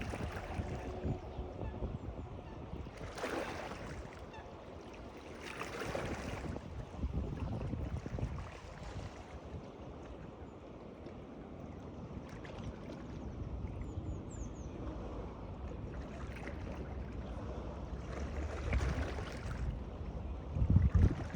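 Water washing and lapping, swelling louder several times, over a low rumble of wind on the microphone.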